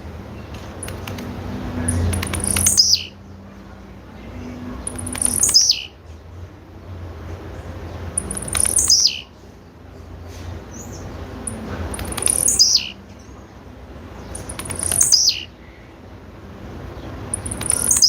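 Blue-black grassquit (tiziu) calling: six sharp, very high notes, each sweeping quickly downward in pitch, repeated about every three seconds. Labelled as the call of a female tiziu.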